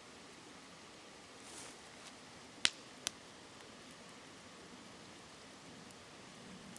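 Wood campfire crackling, with two sharp pops less than half a second apart about two and a half seconds in, over the steady rush of a shallow river.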